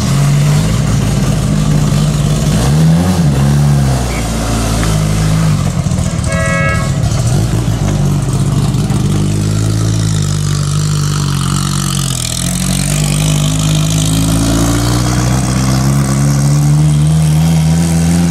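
Rally-prepared Simca 1000's rear-mounted four-cylinder engine running loud at low speed, its revs rising and falling as the car is driven past. A brief horn-like beep about six and a half seconds in.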